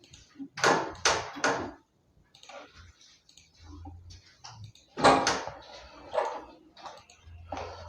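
A few sharp clicks and taps from working at a computer: three in quick succession about half a second in, then single ones about five, six and seven and a half seconds in.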